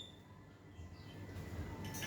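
A lull between loud bird calls: the end of one call fades out at the start, then only faint, brief high chirps over a low background hiss.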